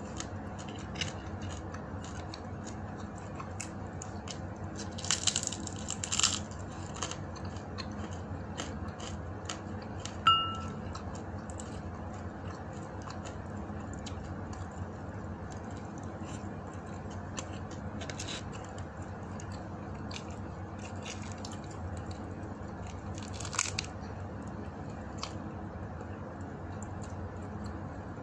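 Close-up eating sounds: chewing with crunching and small clicks, with a few louder crunches about five to six seconds in and again near the end, over a steady low hum. A short high beep sounds once about ten seconds in.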